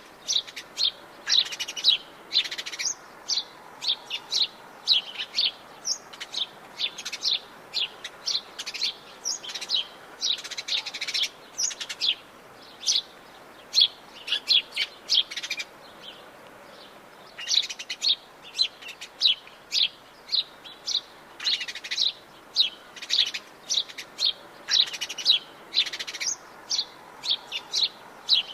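Songbirds chirping in the Atlantic Forest: rapid, high-pitched chirps in quick runs, with a pause of a second or two about halfway through.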